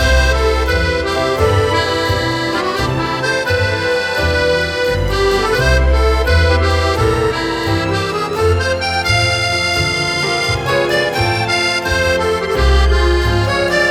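Accordion music playing a flowing melody over chords, with a bass line that pulses steadily underneath.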